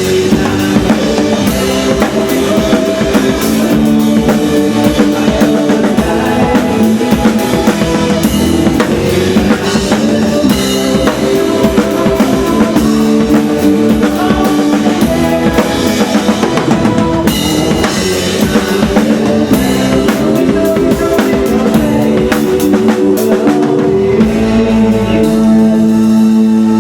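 Live band playing a song on drum kit, bass and guitar, with the drums driving a steady beat. About 24 seconds in the drums stop and held guitar chords ring on.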